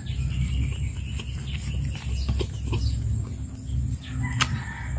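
Close-up chewing and lip smacks of a mouthful of rice and taro in coconut milk eaten by hand, short wet clicks scattered through, over a steady low rumble.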